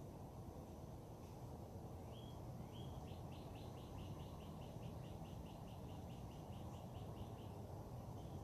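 A songbird singing: two short rising whistled notes, then a quick run of about twenty repeated notes at roughly five a second, over a steady low background hum.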